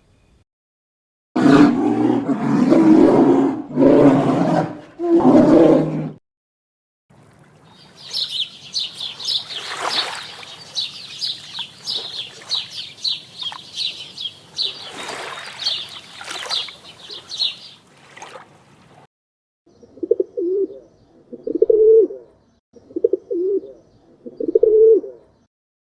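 A series of animal calls: three loud, rough, roar-like calls, then a long run of rapid high-pitched bird chirps, then four short low cooing calls, like a dove's, about a second apart near the end.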